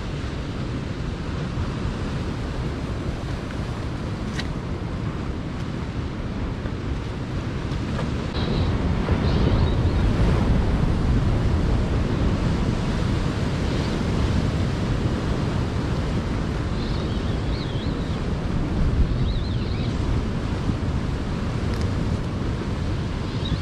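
Wind buffeting the microphone over the wash of sea surf, a steady low rumble that grows louder about eight seconds in. A few faint high chirps sound now and then.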